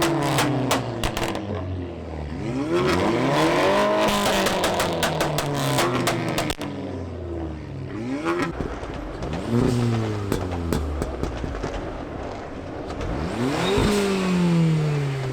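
A performance car engine revved repeatedly, its pitch rising and falling about five times, with sharp crackles between the first revs.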